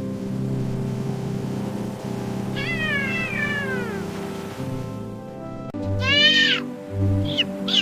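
Cat meowing over background music: a long meow falling in pitch about two and a half seconds in, a shorter, higher meow around six seconds, then a few quick short high calls near the end.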